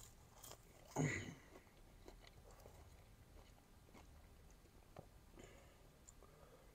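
Quiet chewing: a man bites into food and chews with his mouth closed, with soft mouth clicks. A brief louder sound comes about a second in.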